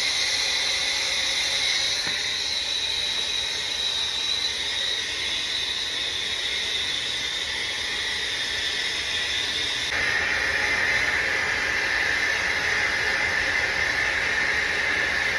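Steady hiss of a brazing torch on the copper line set, with a whistling tone that drops to a lower pitch about ten seconds in.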